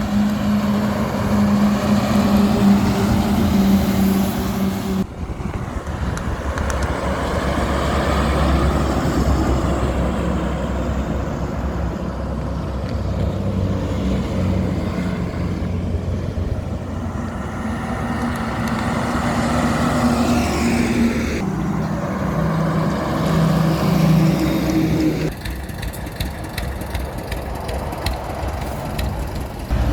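Highway traffic: trucks and cars running past with a steady engine drone over road noise, the sound changing abruptly three times where the recording is cut.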